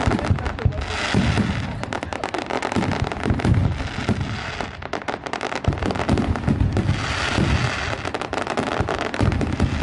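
Firecrackers going off in dense, rapid crackling that never lets up, with heavier bangs mixed in every few seconds.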